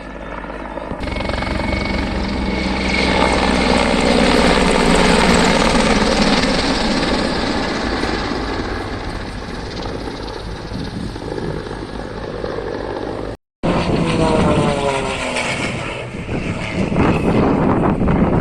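Aircraft flying past: the engine and propeller noise swells to its loudest about four seconds in and then eases off. After a brief cut, another pass follows with the pitch falling as it goes by.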